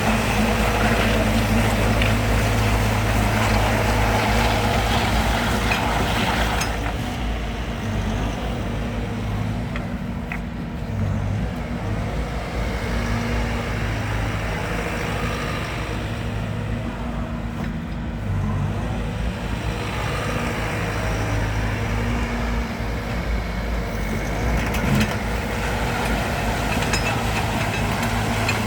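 Develon DX85R-7 excavator's diesel engine running steadily. It is louder and rougher for the first seven seconds or so, then settles to a lower, even note.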